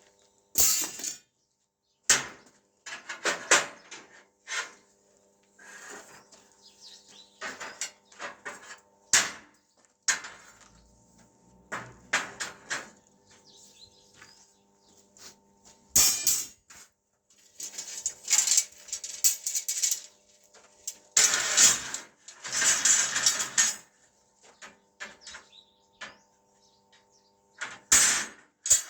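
Metal door or gate latch hardware being worked by hand: irregular clacks and knocks with short scraping slides, on and off, with a longer run of sliding and scraping a little past the middle.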